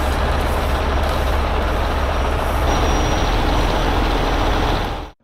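Heavy tow truck's diesel engine running steadily, a deep rumble under a broad hiss. It cuts off abruptly near the end.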